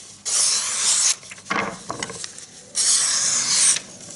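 Knife blade slicing through a sheet of paper in two long strokes, each a smooth hissing rasp about a second long, with paper rustling between them: a sharpness test of a Mora Companion stainless knife.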